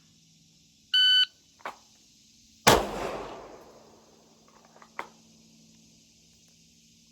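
A shot timer's short electronic beep, then, after a faint click about half a second later, a single handgun shot about a second and a half after the beep, its echo fading over about a second and a half. A sharp knock follows a couple of seconds after the shot.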